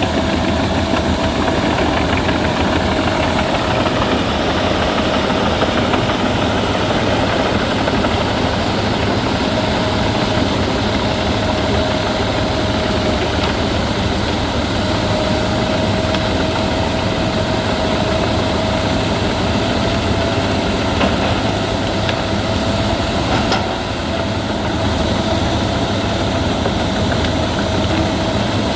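Albach Diamant 2000 wood chipper running steadily, engine and chipping drum holding a constant hum with a steady whine.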